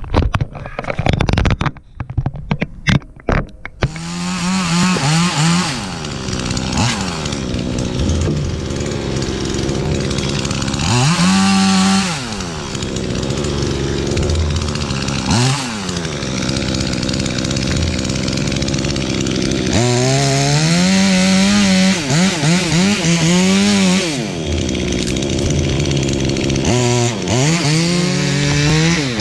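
A few sharp clicks, then from about four seconds in a chainsaw runs continuously, cutting into a tree trunk to fell it. Its engine pitch dips and recovers several times as the chain works under load.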